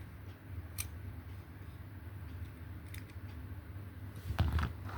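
A few faint sharp clicks and a short rustle from handling small diecast model cars, over a low steady hum.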